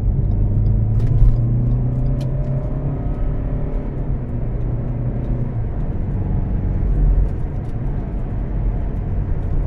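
Steady low rumble and engine hum of a car being driven, heard from inside the cabin.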